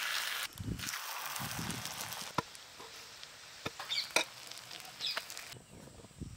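Omelettes sizzling faintly on a hot iron griddle, followed by a few light clicks and taps of a metal spatula against the griddle.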